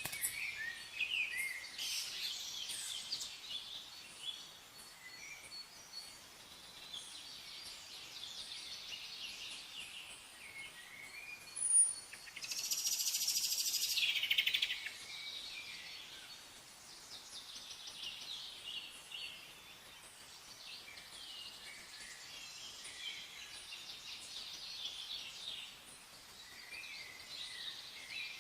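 Several songbirds chirping and singing, short high notes and warbles overlapping. Just before the middle comes a sharp high note, then one bird gives a rapid dense trill for about two seconds, the loudest part.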